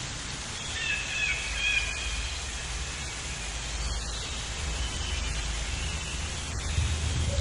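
Steady outdoor noise with a few short bird chirps about a second in, and fainter ticks and calls later.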